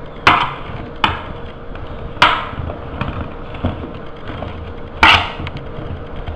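Boiled potato pieces being tipped and tossed in a baking tray, giving a few sharp knocks against the tray, the loudest about five seconds in.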